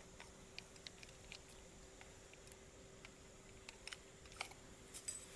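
Faint, scattered small clicks and taps over a quiet background with a faint steady hum, a few sharper clicks near the end.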